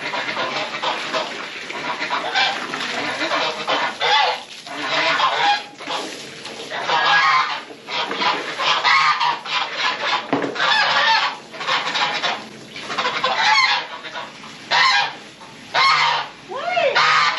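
Geese honking loudly and repeatedly, harsh calls coming in quick, overlapping runs. The gander, a male goose, is among them and is the loudest of the flock.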